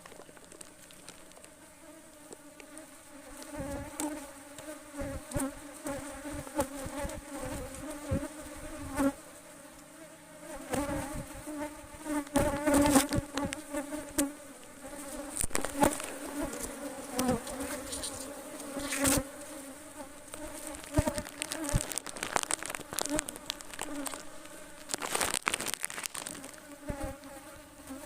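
Honeybees buzzing as a steady, many-winged hum. Frequent sharp crackles and knocks break into the hum, thickest through the middle.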